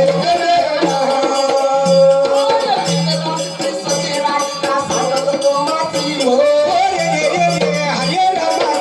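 Marathi folk devotional music: a held drone under a melody that bends up and down, over a repeating low drum beat and rattling percussion.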